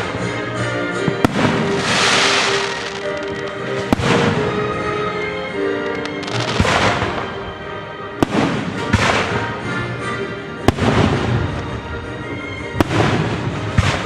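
Fireworks shells bursting: about five sharp bangs a couple of seconds apart, with rushes of crackling between them, over orchestral music.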